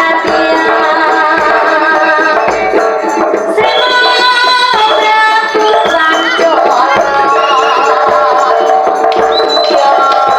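Live jaranan band music: hand-drum strokes under a loud, sustained melodic lead with bending pitches.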